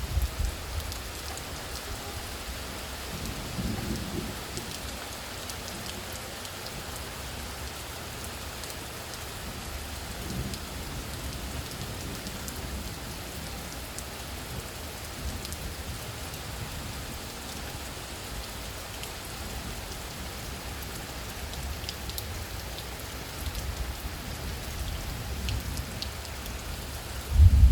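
Steady light rain falling in strong wind, an even hiss throughout. Low rumbles come and go, about four seconds in and a louder one at the very end.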